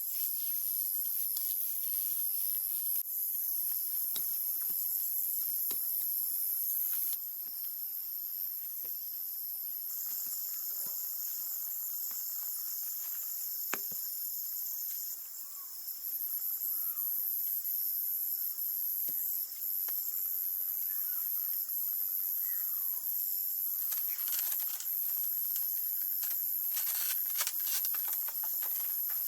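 Steady high-pitched chorus of insects, crickets or cicadas, in several layered bands that shift a little over time, with faint scattered taps and clicks beneath.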